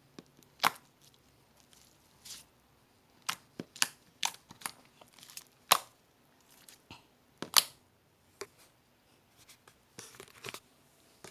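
Cream slime being squeezed and worked with crushed meringue cookie pieces mixed in, giving irregular sharp crackles, crunches and clicks at uneven intervals, a few of them much louder than the rest.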